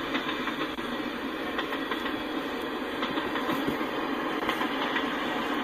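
Freight train of tank cars rolling past at speed: a steady rumble and rattle of steel wheels on rail, with occasional clicks.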